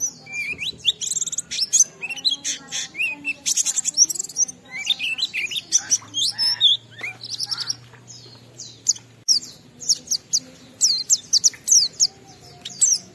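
White-eye (pleci) singing a continuous, fast, busy song of high chirps and quick sweeping notes. This is the long 'ngalas' style of song, laced with mimicked phrases that hobbyists call 'isian'.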